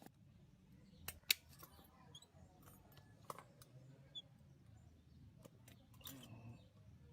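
Scattered sharp clicks and light taps, a few seconds apart, the loudest just over a second in, over a faint low hum.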